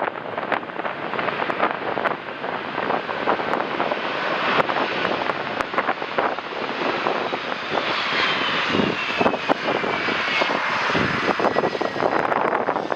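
Jet engines of a landing airliner passing, with a high whine that falls slowly in pitch over several seconds. Wind buffets the microphone throughout.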